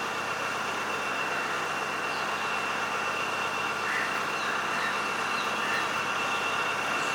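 Steady background hiss with a faint, steady high-pitched whine and a few faint short chirps.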